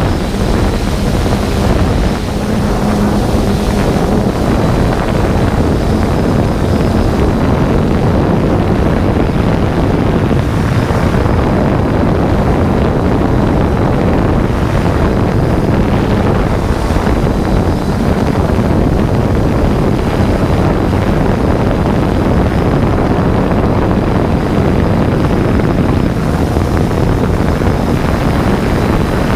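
3DR Solo quadcopter in flight: its propellers and motors, with wind on the onboard camera's microphone, make a loud, steady rushing noise under a faint steady hum.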